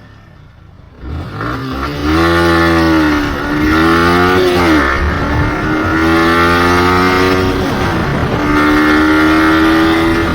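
Yamaha R15 V3's single-cylinder engine through its stock exhaust, being revved. It comes in loud about a second in and climbs to high revs, which it holds. It drops back about halfway through, then holds steady and climbs again near the end.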